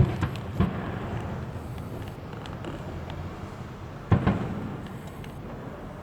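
Fireworks shells bursting. There is a sharp bang right at the start and another just over half a second later, each trailing off in a long rumbling echo, then two more bangs in quick succession about four seconds in.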